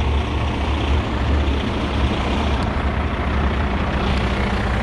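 Heavy diesel truck engine running steadily, a deep even drone, with a couple of faint clicks partway through.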